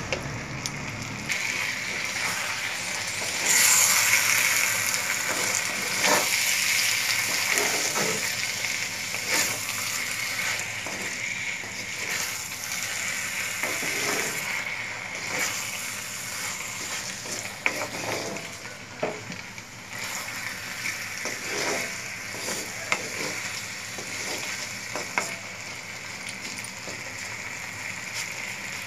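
Mixed vegetables in mustard paste sizzling in a pan as they are stirred with a wooden spatula, a steady hiss with scattered scrapes and taps of the spatula against the pan. The sizzle is loudest a few seconds in.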